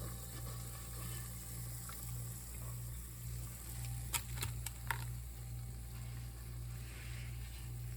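Hot oil bubbling in a fryer, with a few sharp clicks about four to five seconds in.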